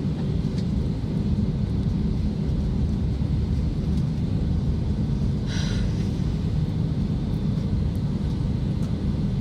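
Steady low rumble of an airliner's engines and wheels heard inside the cabin as the plane taxis toward the runway. A brief high-pitched sound comes through about halfway through.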